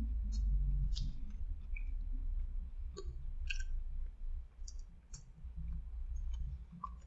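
A person chewing a mouthful of fried chicken sandwich close to the microphone, with scattered wet mouth clicks and smacks at uneven intervals.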